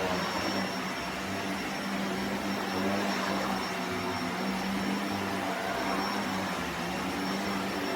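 Upright vacuum cleaner running steadily in carpet mode, being pushed over carpet: a continuous rushing of air with a steady low hum and a thin high whine.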